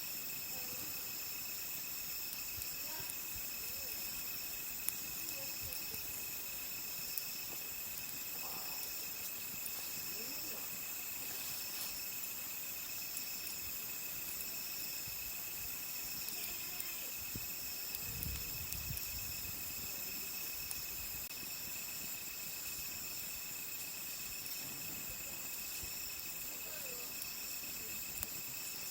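A steady chorus of crickets and other night insects, several high tones shrilling without pause, with sparse small pops and crackles from a wood campfire. A brief low rumble comes about two-thirds of the way through.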